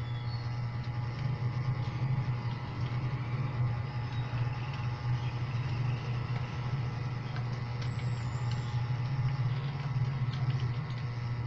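Steady low hum with a few faint, scattered clicks of keyboard keys.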